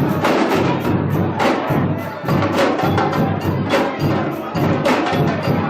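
Samba bateria, a Brazilian percussion ensemble, playing a dense, driving groove of drums and hand percussion, with heavy accented hits a little over once a second.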